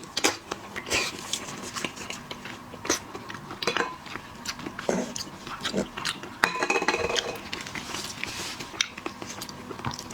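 Close-miked eating of seafood: irregular sharp cracks and clicks of shells being broken and dishes or utensils clinking, with biting and chewing. A brief pitched squeak stands out about six and a half seconds in.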